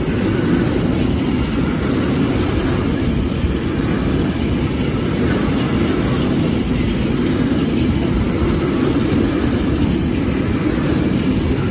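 Freight train of empty intermodal flat wagons rolling through on the track, a steady loud rumble of wheels on rail.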